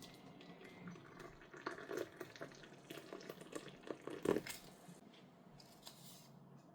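Water splashing and dripping in a run of irregular splashes, loudest about four seconds in.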